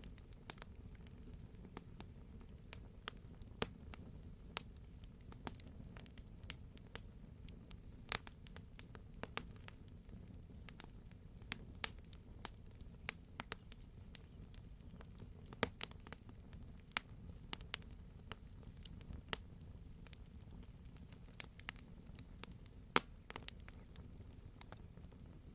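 Campfire burning with a low steady rumble and irregular sharp crackles and pops of burning wood, one pop louder than the rest near the end.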